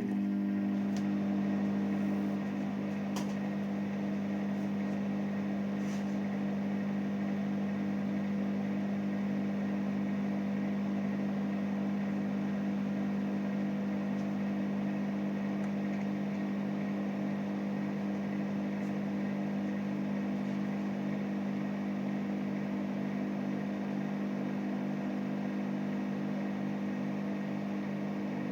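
Microwave oven running: a steady electrical hum that starts abruptly, with a faint regular pulsing and a few light clicks in the first several seconds.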